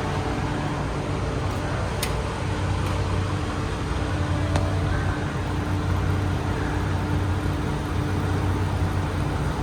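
Semi truck's diesel engine running with a steady low hum, and two short sharp clicks about two and four and a half seconds in.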